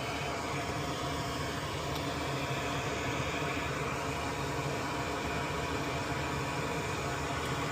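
Steady, even whirring hiss of a small fan running, with no other events.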